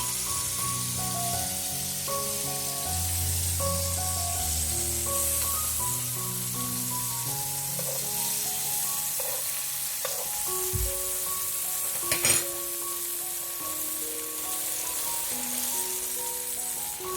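Food sizzling in a frying pan, a steady hiss under background music, with one sharp clink about twelve seconds in.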